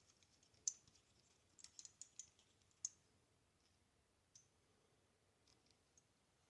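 Faint, sharp small clicks and taps, a scattering of them with a cluster around two seconds in, from a safety razor head being handled and fitted onto a wooden handle.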